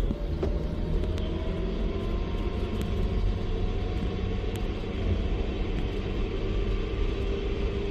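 Motor vehicle running with a steady low rumble, its engine note rising slowly as it picks up speed.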